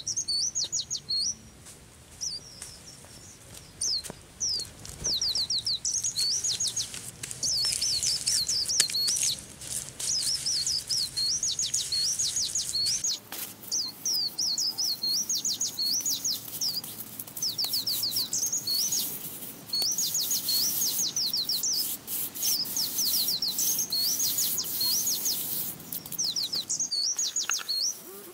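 A small songbird singing: quick, high chirping phrases repeated over and over with short pauses between them.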